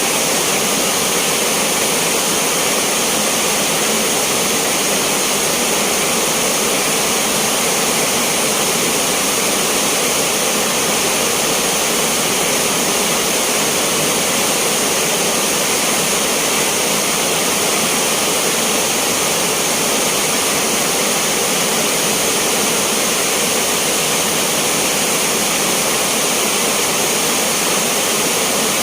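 Heavy rain falling steadily, a loud, even hiss of water.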